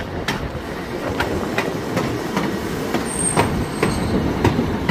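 GWR Class 150 Sprinter diesel multiple unit running past, its wheels knocking over rail joints in an uneven series of clicks over a steady low rumble. A brief thin high-pitched squeal comes about three seconds in.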